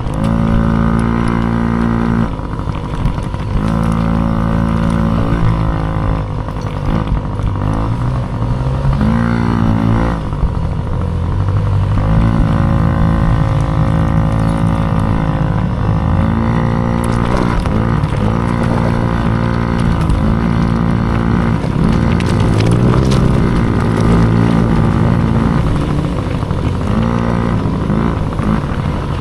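Dirt bike engine running hard under race throttle, its revs dropping and climbing again every few seconds.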